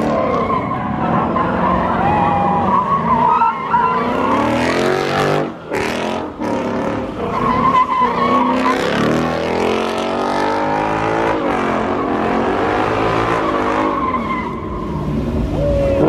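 A car's engine revving hard, its pitch rising and falling again and again, while the tyres spin and squeal on the pavement in a burnout.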